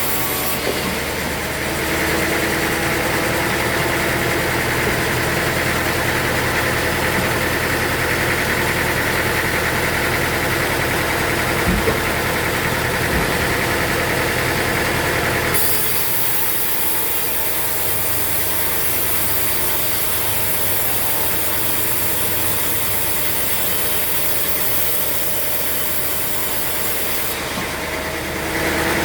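Sawmill machinery running steadily with a constant whine. A little past halfway the sound changes and a high hiss comes in over it, lasting about twelve seconds.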